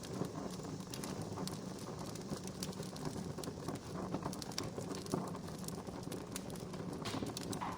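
Wood campfire crackling, with many irregular sharp pops and snaps over a steady low rush.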